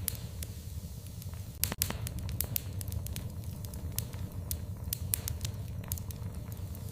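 Fire in a fireplace crackling, with scattered sharp pops over a steady low rumble; a cluster of louder pops comes about one and a half seconds in.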